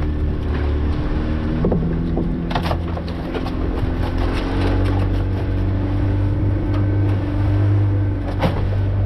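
Fishing boat's motor running steadily under way, with a few brief knocks.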